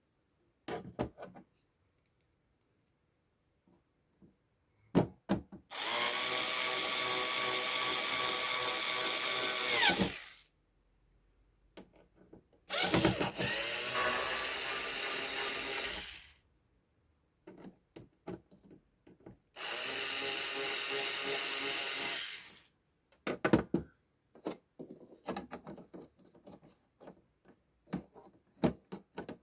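Electric screwdriver running in three bursts of about three to four seconds each, its pitch dropping as each run stops, with clicks and handling knocks between.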